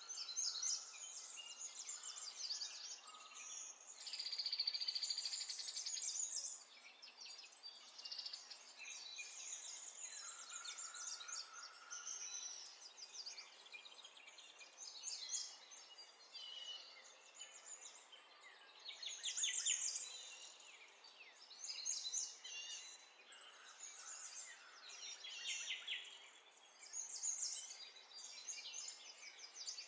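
Birds chirping and singing, several overlapping calls with quick high trills that come and go, over a faint steady hiss.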